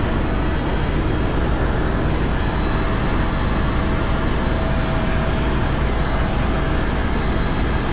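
Tour helicopter in flight: steady drone of the rotor and turbine engine heard from the cabin, deep and unchanging, with a faint steady whine on top.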